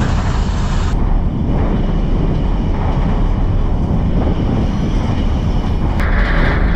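Mauritanian iron ore train running on the rails, a loud steady rumble and clatter heard from on top of an open ore wagon. A higher hiss joins about six seconds in.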